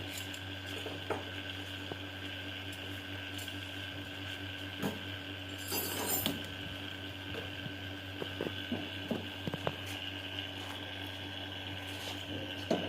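A steady machine hum made of several fixed tones, with scattered light clinks and taps throughout and a brief rustling noise about six seconds in.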